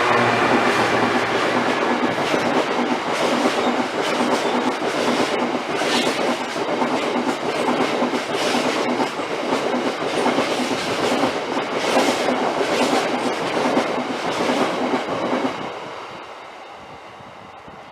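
A train passing close by at speed, a loud steady rush of wheels on rails with a few sharper clatters as the wheels cross track joints. The noise drops away sharply about fifteen seconds in as the train clears.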